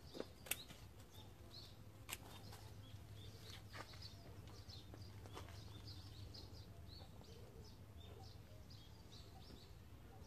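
Faint outdoor ambience with small birds chirping in quick short calls, over a steady low hum, and a few sharp clicks in the first few seconds.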